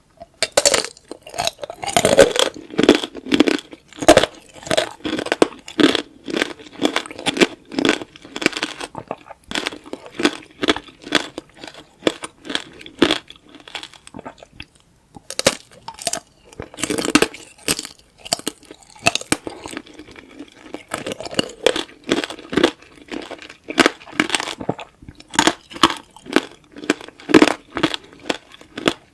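Close-up crunching and chewing of tanghulu, fruit in a hard candy shell, the sugar glass cracking between the teeth in dense runs of sharp crackles, with a short pause about halfway through.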